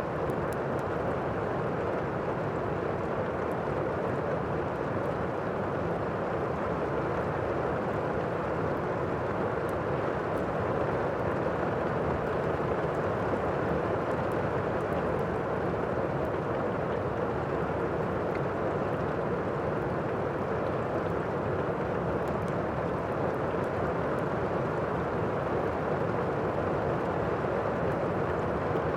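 Thunderstorm ambience: a steady, even wash of rain noise, with a few faint crackles that fit a fireplace.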